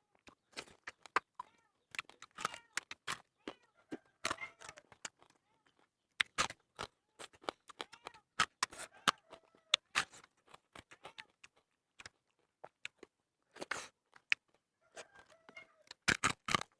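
Close-up eating sounds of fried fish coated in chili: irregular crunching, tearing and chewing, with many short, sharp mouth clicks and smacks.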